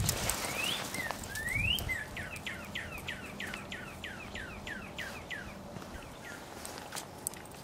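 A songbird singing: two rising whistles, then a run of about a dozen quick down-slurred whistles, about four a second, that fade away. A couple of low thumps in the first two seconds.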